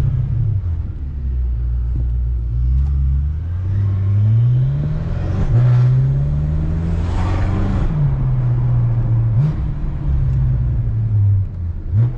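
BMW F10 M5's twin-turbo V8 with an aftermarket X-pipe exhaust, heard from inside the cabin, accelerating through the gears: the engine note climbs, drops at each upshift and climbs again. Later come two quick rev blips.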